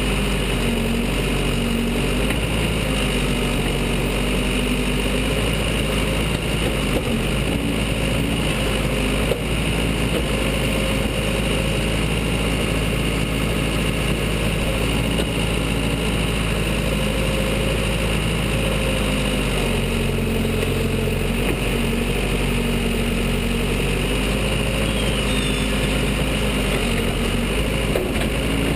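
Case 580 Super L backhoe's diesel engine running steadily, its pitch shifting a little now and then.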